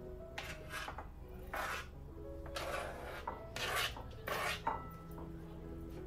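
About six short, irregularly spaced scraping strokes of kitchen food preparation, with soft background music underneath.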